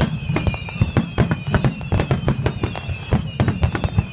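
Fireworks display: a rapid, dense barrage of sharp bangs and crackles, several a second, over a low rumble, with a thin, wavering high tone held underneath.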